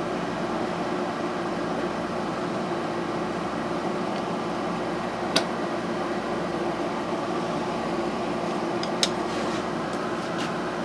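Steady mechanical hum from a background machine, with two short clicks about five and nine seconds in.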